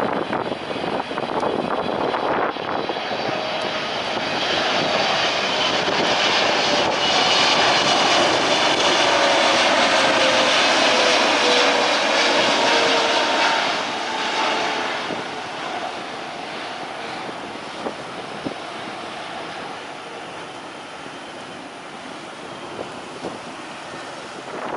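Jet airliner passing by. The engine noise swells to its loudest after about seven seconds, with a whine falling in pitch as it goes past, then dies away.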